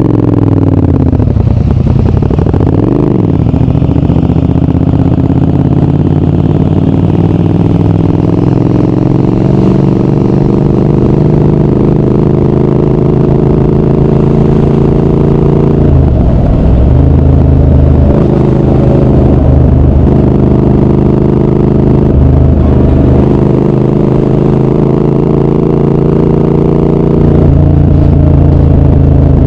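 Triumph Speed Twin 1200 parallel-twin engine and exhaust under way. It pulls up through the revs in one long, slow rise in pitch. In the second half a run of quick gear changes follows, each a brief dip in revs before it climbs again.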